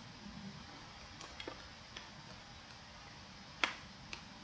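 A handful of faint, separate clicks from a computer mouse, spaced irregularly, with one sharper click about two-thirds of the way through.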